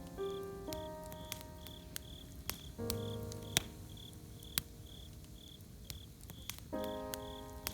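Campfire crackling with scattered sharp pops, over crickets chirping steadily about twice a second. Soft instrumental music plays chords that ring and fade, struck near the start, about three seconds in, and again near the end.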